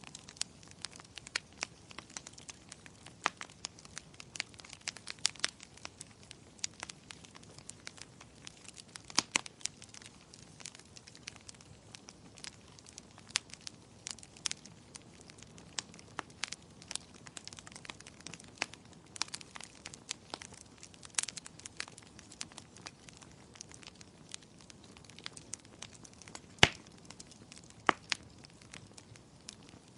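Wood fire crackling in a fireplace: a soft steady hiss dotted with many sharp pops and snaps, the two loudest near the end.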